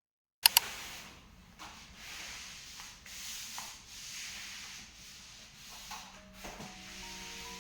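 Repeated rubbing strokes of a surface being wiped or scrubbed clean by hand, each stroke swelling and fading about once a second, after two sharp clicks near the start.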